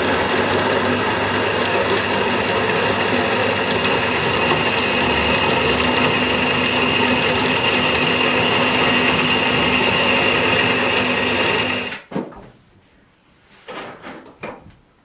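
A machine running steadily with a high whine and a low hum, cutting off abruptly about twelve seconds in, followed by a few faint knocks.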